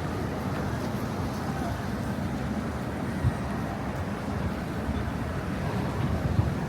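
Steady city street traffic noise from passing vehicles, with a short knock about three seconds in.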